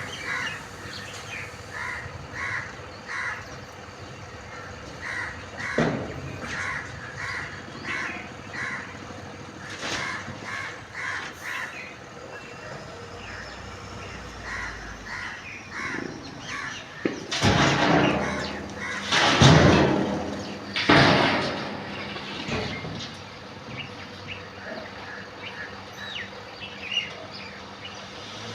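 Crows cawing over and over in short calls. Partway through come three loud rushes of noise, each lasting about a second, and a faint steady hum runs underneath.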